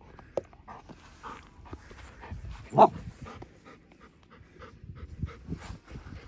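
Dogs panting hard during play, with rustling and scuffling. Just under three seconds in there is one short, louder vocal sound from one of the dogs.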